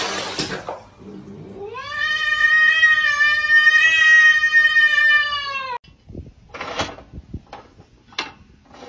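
A cat giving one long, drawn-out yowling meow of about four seconds that rises at the start, holds its pitch and is cut off abruptly, followed by a few light knocks and clicks.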